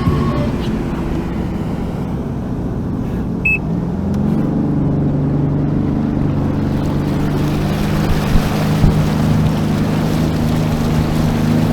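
Sea-Doo FishPro jet ski engine running, rising in pitch about four seconds in as it speeds up, then holding steady, with rushing water and wind noise building.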